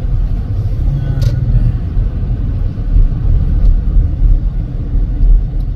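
Low, uneven rumble of a car driving.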